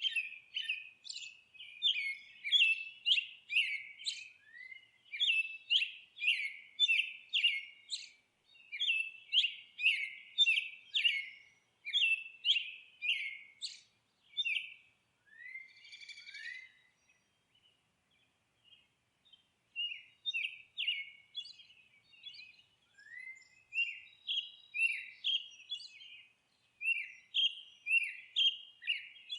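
Songbirds chirping and twittering in quick runs of short high chirps, several a second. The song thins out about halfway through, then picks up again.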